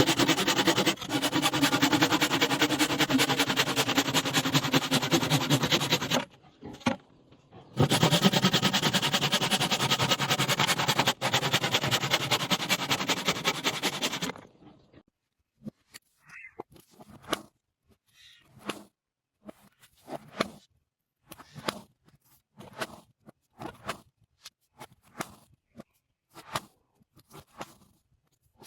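Bamboo being cut: a fast, loud rattling cutting sound in two runs of about six seconds with a short break between, followed by scattered single knocks and taps about once a second.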